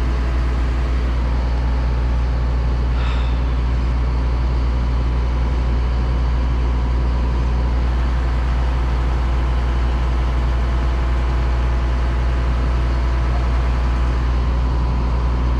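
A large engine idling steadily, with an even low hum that does not change in speed.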